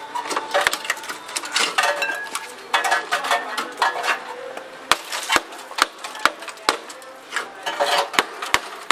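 Hand-tool work on rusted car body sheet metal: irregular scraping and clattering, then from about five seconds in a run of sharp taps, about two a second.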